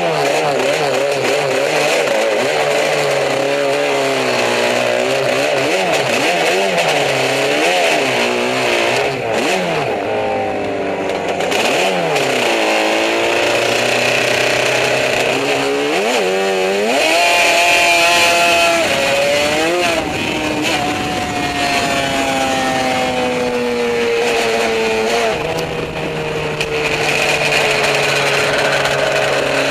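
Yamaha 750 two-stroke racing motorcycle engine, heard up close from the bike itself. It is revved in quick, wavering blips at first, then pulls away with its pitch climbing sharply twice around the middle, and eases into a slowly falling, steadier run near the end.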